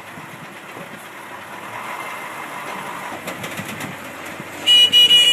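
Heavy vehicle engine running under load with a steady mechanical rumble. Near the end, a loud, steady horn-like blast cuts in.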